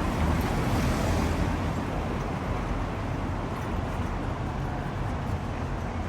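Steady low rumble with a hiss over it, of even loudness throughout.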